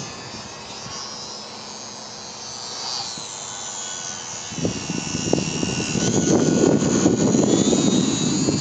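Brushless electric motor and propeller of a ParkZone Su-26 XP radio-controlled plane whining in flight, its pitch sliding down and back up as it passes and changes throttle. From about halfway, heavy wind buffets the microphone and becomes the loudest sound.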